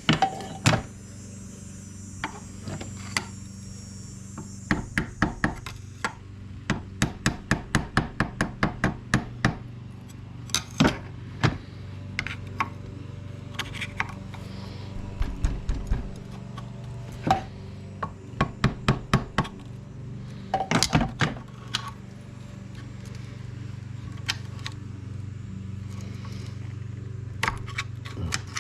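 Repeated sharp taps and knocks of a tool on a small starter motor's housing, driving out a glued-in field magnet without breaking it. The taps come in quick runs of several a second, with pauses between them.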